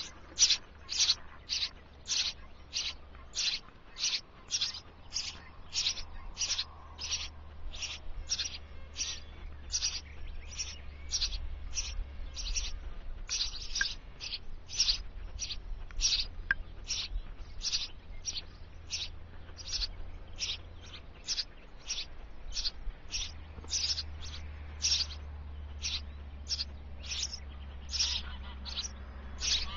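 Small bird at a nest box giving short, high chirps, repeated evenly at nearly two a second, over a low rumble.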